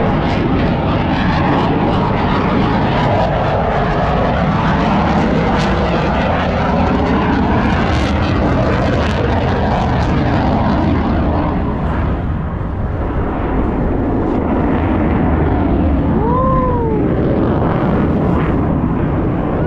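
Loud, steady roar of an airplane flying at an airshow, easing a little about two-thirds through and then building again. A short rising-then-falling tone sounds near the end.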